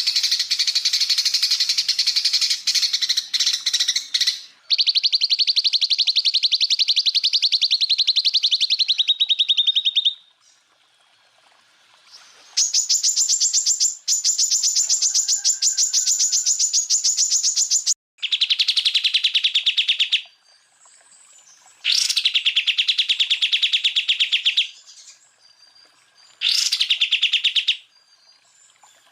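Greater green leafbird (cucak ijo) singing 'tembakan': long, loud trills of very fast repeated high notes, each burst lasting several seconds, with brief pauses between bursts.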